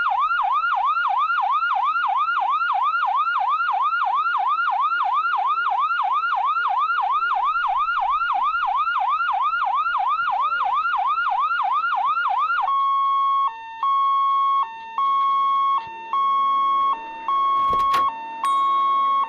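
Ambulance electronic siren on a fast yelp, about three pitch sweeps a second. About 13 seconds in it switches to a steady high tone broken by short dips in pitch and brief gaps, with a lower rising drone underneath and a sharp click near the end.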